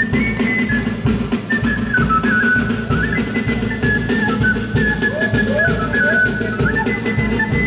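Festival band music: a high piped melody that steps between notes, over steady drums and percussion.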